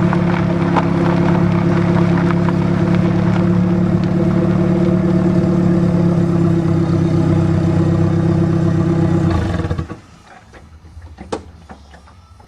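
Exhaust of a turbocharged Dodge Aries picked up right at the rear of the car, running at a steady engine speed as one even drone. It cuts off sharply about ten seconds in, leaving a faint low rumble and a few clicks.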